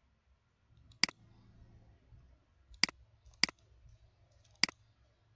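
Four sharp computer-mouse clicks, spaced irregularly over a few seconds, as shapes are selected and grouped.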